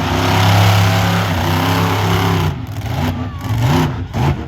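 Monster truck engine running hard with a steady note, then blipped up and down about four times in quick succession in the second half.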